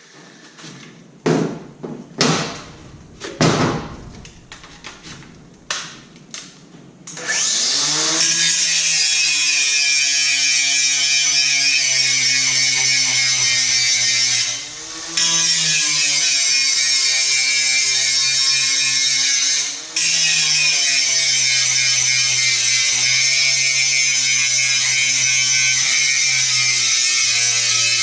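A few sharp knocks and clanks, then about seven seconds in an angle grinder spins up and grinds steel, a steady high whine with a harsh hiss. Partway through its speed sags and recovers once, and later it cuts out for a moment before running on.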